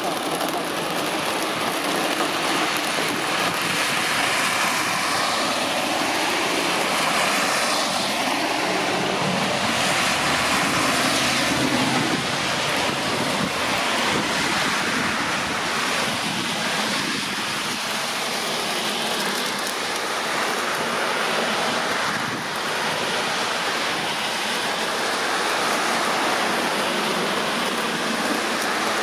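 Heavy rain from a thunderstorm pouring down as a steady, dense hiss.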